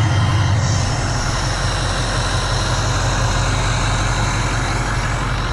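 Ford 6.0 Powerstroke turbodiesel V8 idling steadily.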